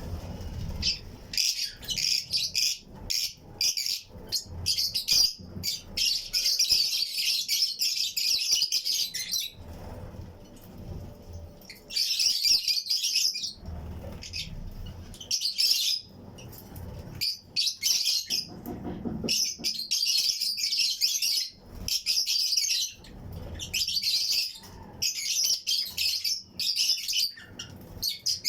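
A flock of lovebirds (Fischer's and lutino) chirping continuously in a colony flight cage, a dense overlapping chatter of high, shrill calls broken by brief lulls.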